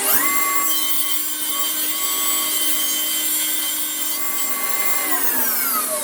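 Power saw cutting wood: it starts at once, runs steadily through the cut, then is switched off about five seconds in and winds down with a falling whine.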